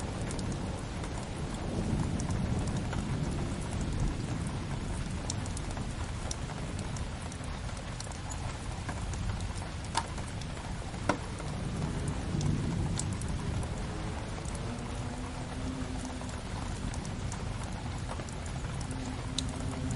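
Rain-and-fireplace ambience: steady rain on a window over a low rumble, with a wood fire crackling in scattered small clicks and two sharper pops about halfway through.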